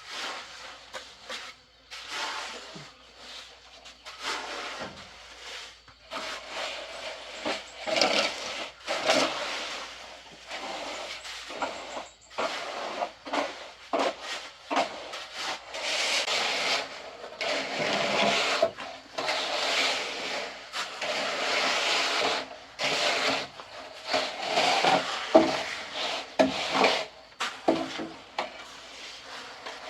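Irregular scraping strokes of a rake and shovel dragging and spreading wet mortar over a floor being screeded.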